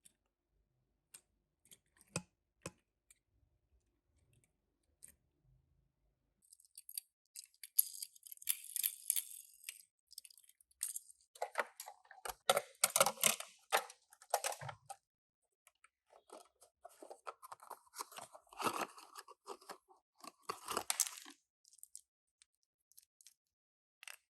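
Toy packaging being opened by hand: a few small clicks, then two long stretches of crinkling and tearing.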